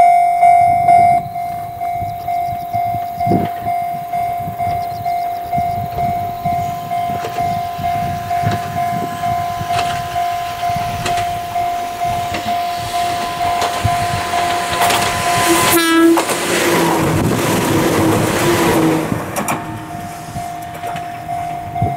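A railway level-crossing alarm rings in a steady, evenly pulsing beat as an Ohmi Railway 800 series electric train approaches. About three-quarters of the way through, the train sounds its horn and passes close by, its running and wheel noise loud for about three seconds, and then the crossing alarm is heard again.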